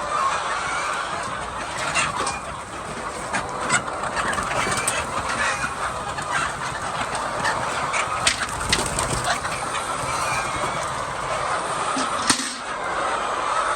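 A large flock of chickens clucking and calling all at once in a dense, continuous din, with scattered sharp clicks and knocks throughout.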